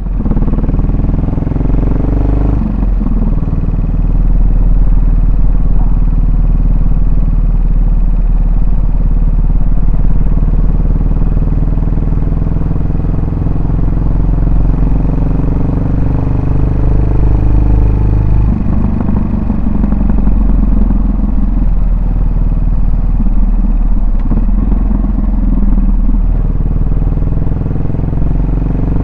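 Yamaha SR400's single-cylinder four-stroke engine and exhaust under way, rising in pitch as it accelerates at the start, changing gear about two and a half seconds in, then running on steadily, with a change in its note about two-thirds of the way through.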